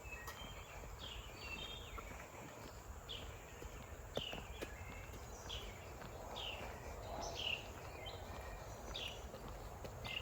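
Birds calling along a wooded trail: short downward-slurred high notes repeated roughly once a second, some followed by brief chirps.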